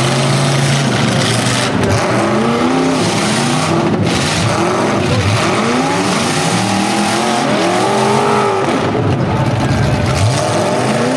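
Several full-size demolition derby cars' engines revving up and down over one another, pitch rising and falling again and again over a steady din.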